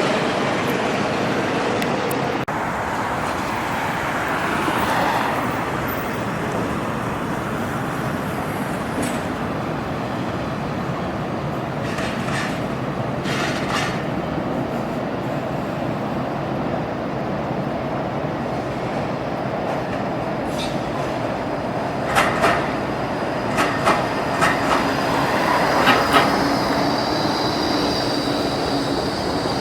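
Train running past on the rails, a continuous rumble with a few sharp knocks from the wheels in the second half. A steady high-pitched tone comes in near the end.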